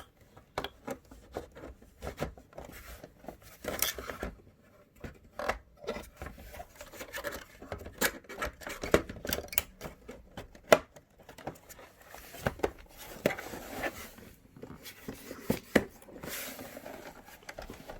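Irregular plastic clicks, taps and short scrapes of a PlayStation 4's casing and cover being handled and fitted back together.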